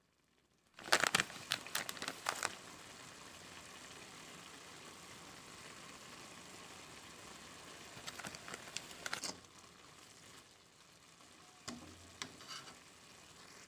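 Chopped onion, capsicum and carrot frying in oil in a metal kadai, a steady sizzle that starts suddenly about a second in. A steel spoon scrapes and clatters against the pan in two spells of stirring, at the start of the sizzle and again around eight seconds in, with a few lighter scrapes near the end.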